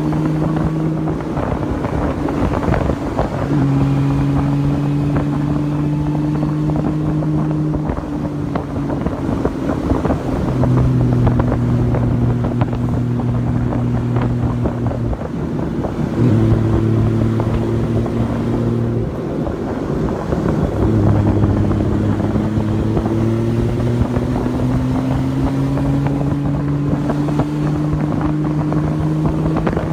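Honda Valkyrie's flat-six motorcycle engine running on the move, its pitch shifting up and down in steps every few seconds, with wind buffeting the microphone.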